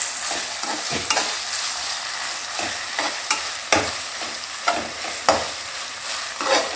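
Onion, garlic paste and green chillies sizzling in oil in an aluminium kadai, with a metal slotted spatula scraping and knocking against the pan in irregular strokes as it stirs.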